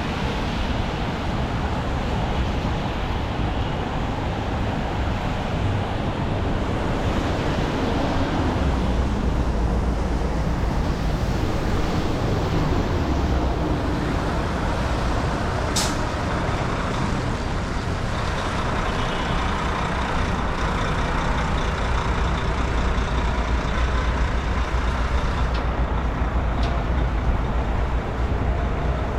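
City street traffic in the rain: a steady rumble of engines and tyre noise on wet pavement, with a brief sharp hiss about halfway through.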